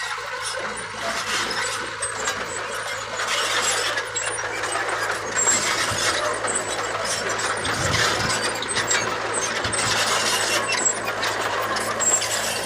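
Bulldozer at work: its engine runs steadily under a constant metallic squealing and clanking, with many short clinks.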